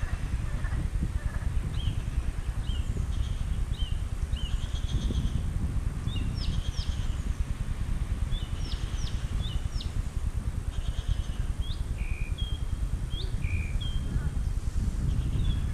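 Songbirds chirping, with many short calls and quick rising notes and trills, over a steady low rumble.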